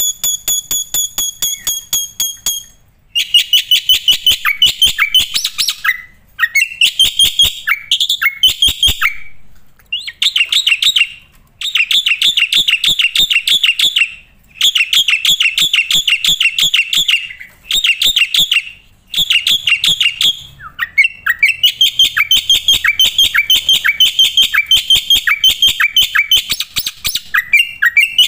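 Black-winged myna (white starling) in full song. It opens with a held high whistle over fast ticking, then breaks into rapid chattering strings of repeated notes, each burst two to four seconds long with short breaks between.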